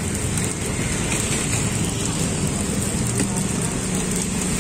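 Steady sizzling hiss of egg and macaroni (maklor) portions frying in a multi-well griddle pan, over a low rumble of street traffic.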